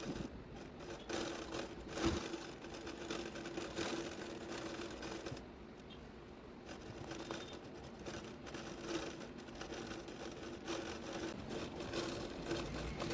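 Hand embroidery: a needle punched through fabric held taut in a hoop and the thread drawn through, giving irregular taps and rasps over a steady hum, with the sharpest tap about two seconds in.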